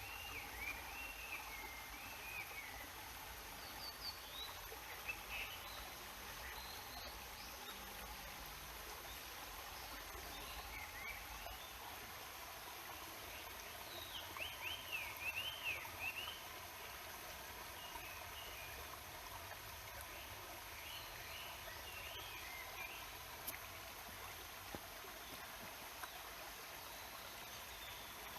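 Mountain stream water rushing steadily, with small birds chirping in short warbling phrases several times, most busily about halfway through.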